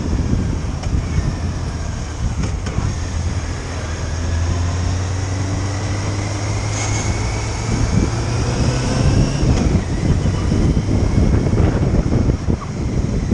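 Motorcycle riding at road speed: wind buffets the microphone over the engine. A steady low engine hum holds through the middle, with faint pitch glides as the engine note changes.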